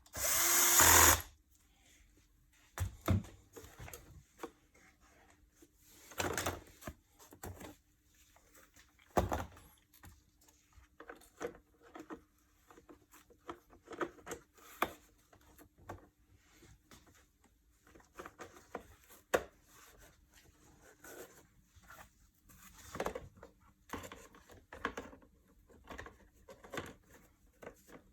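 Parts of a cordless stick vacuum being handled during repair: a loud whirring burst of about a second at the start, then scattered plastic clicks and knocks, over a faint steady hum.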